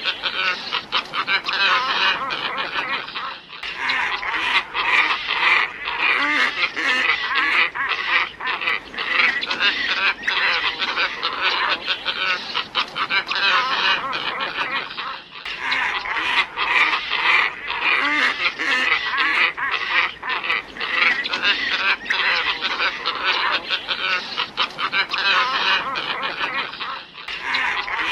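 Glossy ibis flock calls played as a bird lure: many overlapping calls packed densely together. The recording loops, with a brief break about every twelve seconds.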